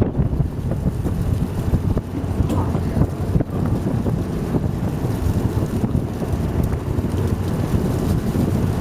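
Wind buffeting the microphone in a steady low rumble, over the rush of a boat at sea.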